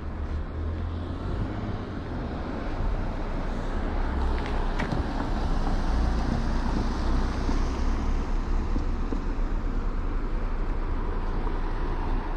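Road traffic noise: motor vehicles running close by, with a steady low engine and tyre rumble that grows louder about three seconds in.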